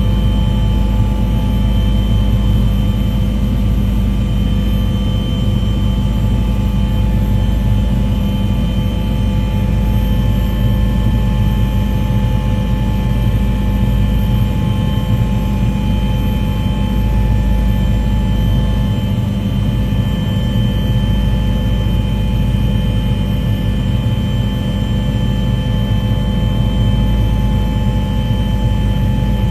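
Aircraft engine running steadily: an unbroken low drone with several constant tones held above it and no change in pitch.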